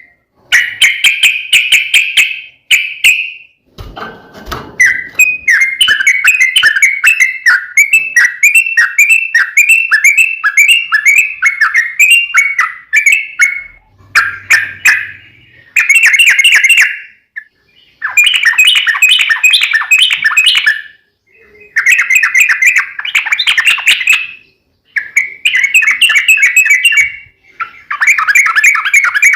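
Yellow-vented bulbul (trucukan) singing loud, bubbly, rapid song phrases a few seconds long, broken by short pauses.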